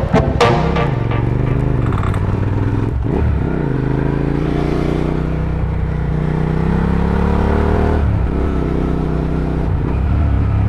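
Motorcycle engine running while riding along, its pitch dipping and then climbing again about three seconds in and again near eight seconds.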